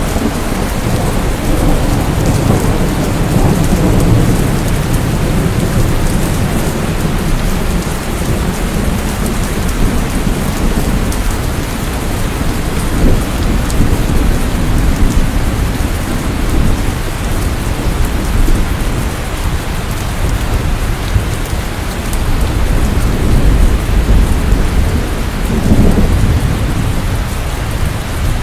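Steady heavy rainfall with a low, rolling rumble of thunder that swells and fades.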